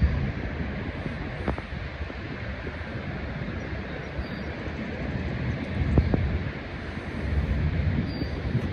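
Steady roar of Niagara Falls' falling water, with wind buffeting the microphone in low rumbling gusts at the start and again in the second half. Two faint knocks, about a second and a half in and about six seconds in.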